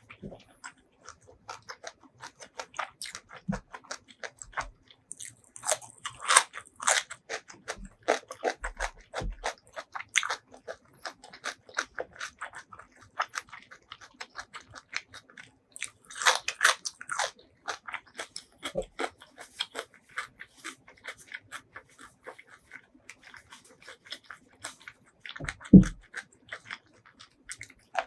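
Close-miked chewing of spicy food: a steady run of wet clicks and smacks, busier in two spells, with a low thump near the end.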